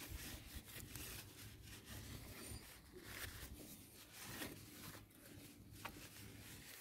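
Faint rubbing and rustling of tissue paper wiping degreaser and grease off a bicycle disc brake.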